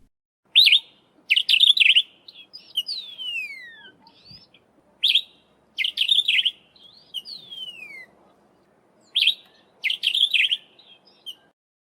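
Sombre greenbul calling: short, sharp chattering phrases repeated through the clip, with two long whistles that slide downward in pitch. The calls stop shortly before the end.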